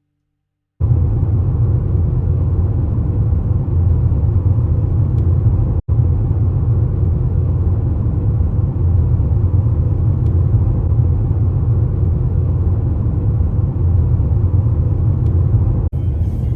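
Steady low rumble of a vehicle on the move, starting abruptly about a second in and briefly cut twice; music comes in near the end.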